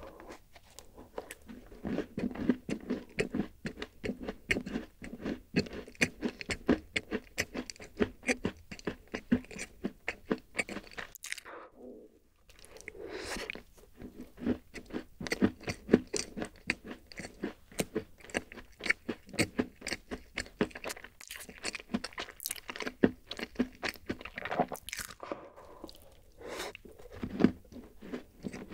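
Close-miked chewing of a thick rice-oat chocolate-chip cookie: a rapid run of small crunches, with a brief pause near the middle.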